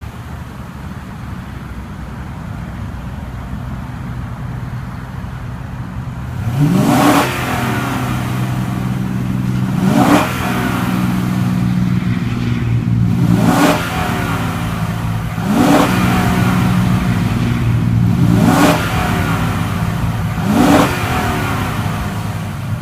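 2014 Lexus LS 460 F Sport's V8 engine idling steadily, then revved six times. Each rev rises quickly in pitch and drops back to idle.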